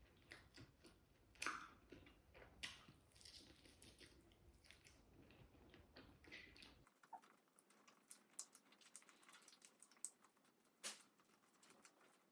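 Faint chewing and small mouth clicks from someone eating, with near silence between the sounds.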